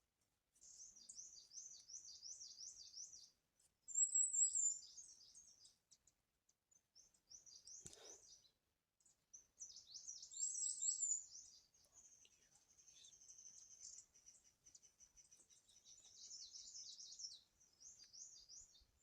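Small songbirds chirping in rapid, high-pitched trilled phrases, several bursts with short pauses between them. A single faint click about eight seconds in.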